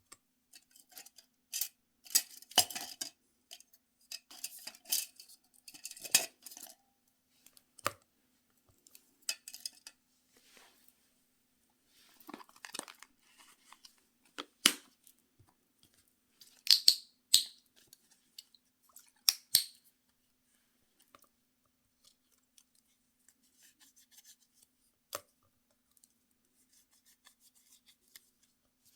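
Small nail-care items and packaging handled close to the microphone: irregular rustling, scraping and sharp clicks of small plastic and glass pieces. It is busiest through the first twenty seconds, then thins to a few faint ticks and one sharp click near the end, over a faint steady hum.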